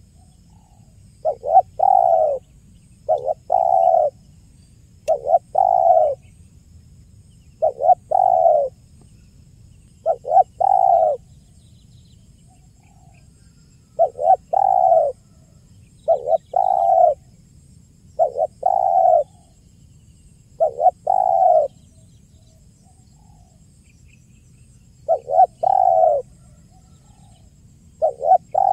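Spotted dove (tekukur) cooing its 'kuk 1' song over and over. Each phrase lasts about a second and comes about every two seconds, with two longer pauses, one about halfway and one near the end.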